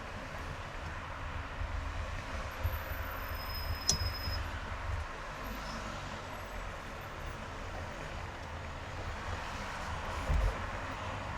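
Car driving on a highway: steady tyre and road noise over a low engine rumble. A sharp click with a brief high tone about four seconds in, and a low thump near the end.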